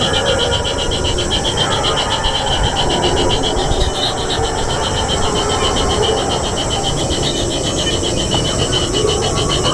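An insect trilling steadily in rapid, even pulses, high-pitched, over a low rumbling noise.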